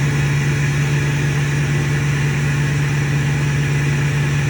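Ford 6.4 Powerstroke V8 turbo-diesel idling steadily.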